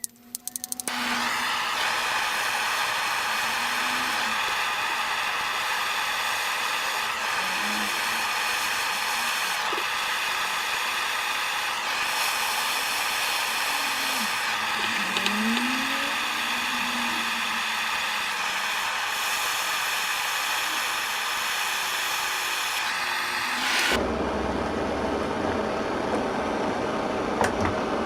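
Electric heat gun blowing hot air steadily onto a stuck drill part to loosen it, its fan motor giving a steady whir with a few clicks as it starts. About 24 s in the sound shifts to a rougher, lower-pitched rush.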